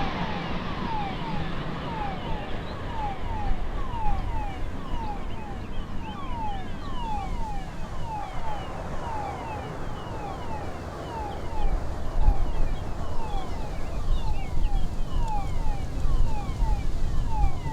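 Birds chirping: many short, falling calls repeating irregularly, a couple each second, over a low outdoor rumble that grows louder in the last few seconds.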